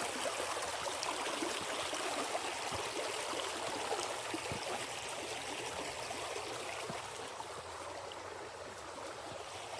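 Shallow creek flowing over rocks, a steady even rush of water.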